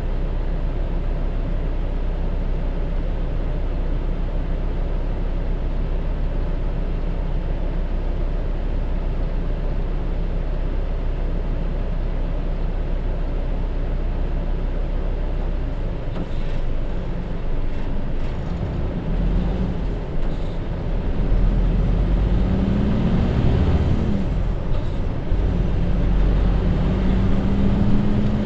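Hino J07E diesel engine of a route bus, heard from inside. It runs steadily at low revs, then from about two-thirds of the way through the bus pulls away: the engine note rises, drops at a gear change and rises again. A few short hisses are heard, typical of the air brakes being released.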